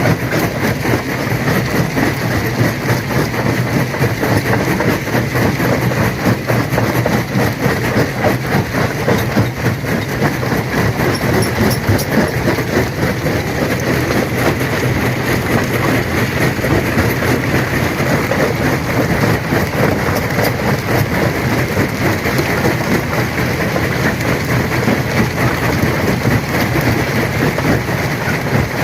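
Stone crusher running under load, steadily crushing rock: a continuous low mechanical hum under a dense, unbroken rattle and crunch of stones.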